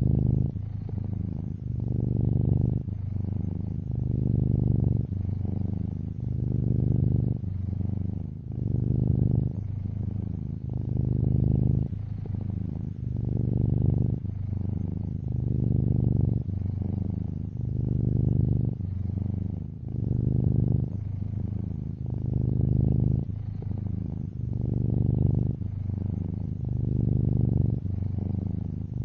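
Black-and-white tuxedo cat purring steadily, a low rumble that swells and fades about every two seconds.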